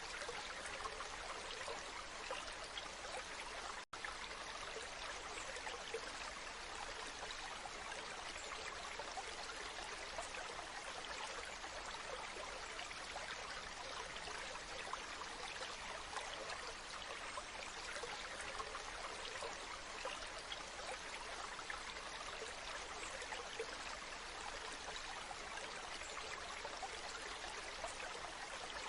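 Waterfall water rushing steadily, an even hiss without a deep rumble, with one momentary drop-out in the sound about four seconds in.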